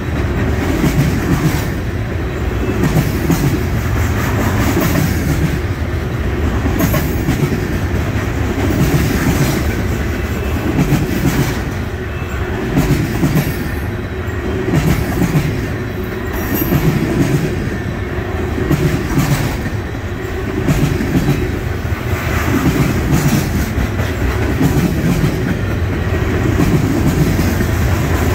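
Norfolk Southern freight train's loaded trash-container cars rolling past on steel wheels, clickety-clack over the rails in a steady rhythm that swells roughly every two seconds as each set of wheels goes by.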